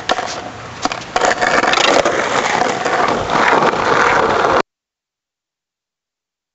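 Skateboard rolling with a few sharp knocks of the board, then the sound cuts off abruptly to dead silence about four and a half seconds in.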